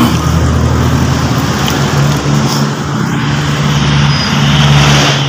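A Mitsubishi Lancer's car engine runs steadily at idle after being started with the starter solenoid fed directly from the battery. The engine sound stops near the end.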